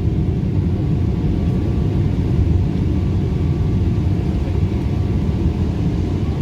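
Steady low rumble inside a Boeing 777's cabin, its GE90 engines at idle while the airliner waits on the ground before takeoff, with a faint steady hum above the rumble.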